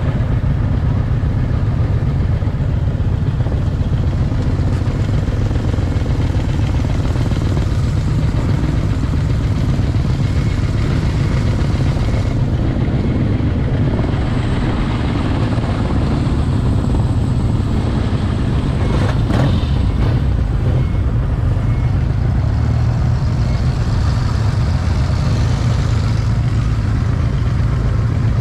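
Motorcycle engines running, with a steady heavy low rumble throughout and a brief sharper sound a little past two-thirds of the way in.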